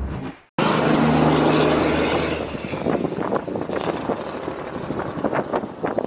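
A vehicle running close up after an abrupt cut about half a second in: a loud, steady rushing noise over a low engine tone, with scattered short clatters toward the end.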